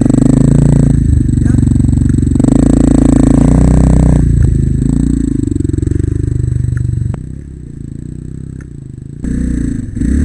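Single-cylinder four-stroke trail motorcycle engine running under load, its revs rising and falling. It drops back to a lower, steadier note about seven seconds in, then picks up again near the end.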